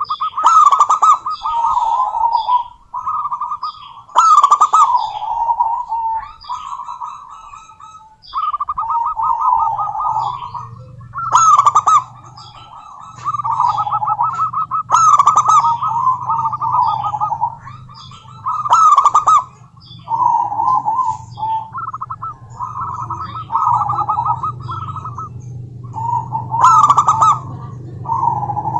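Zebra dove cooing: a run of rapid, rolling, trilled coo phrases, each a second or two long, repeated every few seconds. A steady low hum sits underneath from about a third of the way in.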